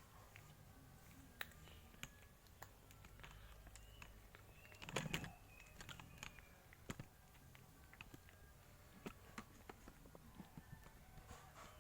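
A cat chewing a chicken bone: faint, irregular crunching clicks, with one louder crunch about five seconds in.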